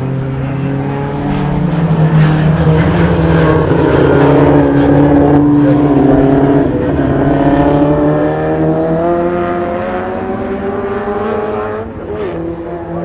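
Racing Morris Mini's four-cylinder BMC A-series engine running hard at high revs, its pitch sliding up and down. Near the end the note climbs steadily, then drops suddenly.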